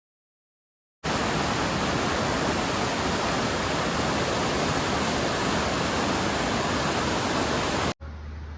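A loud, steady, even rushing noise with no tone or rhythm. It starts abruptly about a second in and cuts off abruptly near the end, where a quieter low hum takes over.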